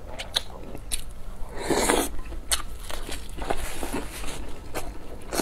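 Close-miked chewing and biting of crispy fried dough, with many small crackles and crunches and one louder burst about two seconds in.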